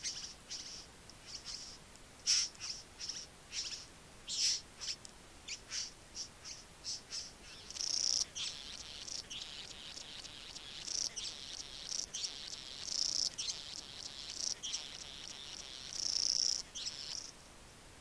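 Birds calling: a quick series of short, high chirps, then longer buzzy, chattering phrases, stopping near the end.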